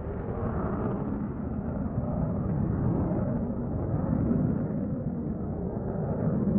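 Steady low rumble of engine and air noise inside an airliner cabin, swelling slightly from about a second in.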